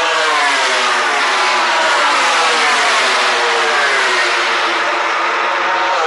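Racing motorcycles going past one after another at high revs, each engine note falling in pitch as it goes by.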